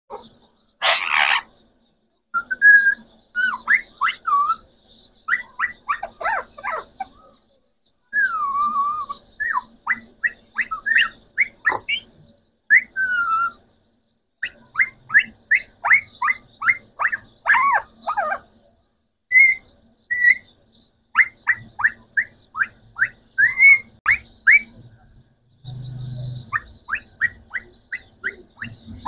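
Green parrots whistling and chirping: runs of quick, sharp rising-and-falling chirps broken by a few longer gliding whistles, with a harsh squawk about a second in.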